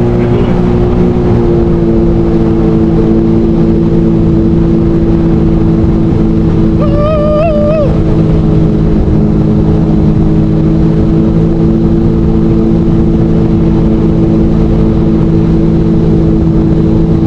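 Jet ski engine running at a steady high speed under way, its drone holding an even pitch over the rush of wind and water. About seven seconds in, a brief wavering higher tone sounds for about a second.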